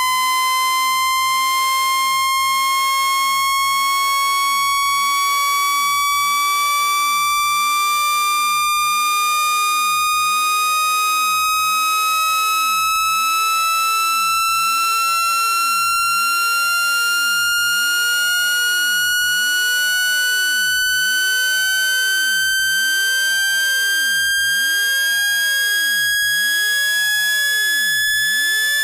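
Speaker-cleaner tone: a loud, buzzy electronic tone with overtones, sweeping slowly and smoothly upward in pitch, played at full volume to vibrate water and dust out of a phone speaker.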